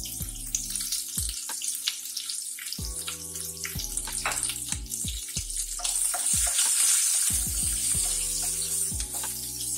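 Sliced onion and green chillies sizzling in hot oil with tempered mustard and cumin seeds in a non-stick pan, the hiss growing louder about six seconds in, with scattered clicks as they are stirred.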